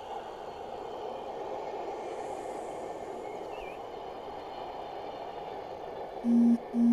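Class 73 locomotive 73962 hauling a Network Rail track inspection train past: a steady rumble of loco and wheels that swells and then slowly eases off as the train goes by. Near the end come two short, loud electronic beeps at one pitch.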